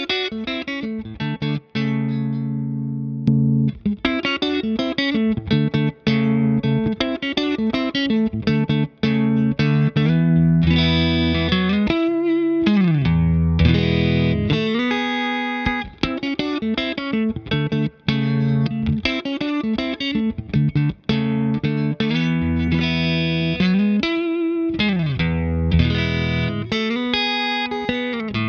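Electric guitar played through a Ross Compressor pedal into a Fender '65 Deluxe Reverb reissue amp. It plays picked chords and single-note lines with long sustaining notes and string bends about twelve seconds in and again near twenty-four seconds.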